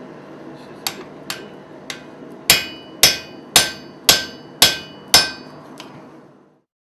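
Blacksmith's hammer striking metal on an anvil: three lighter taps, then six heavy, ringing blows about half a second apart. The sound cuts off suddenly near the end.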